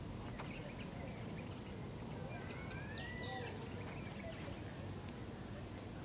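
Rainforest ambience with a bird calling about halfway through: a couple of short gliding whistles, one sweeping up sharply. Underneath is a steady outdoor hiss, with a sharp click right at the start and a few faint taps.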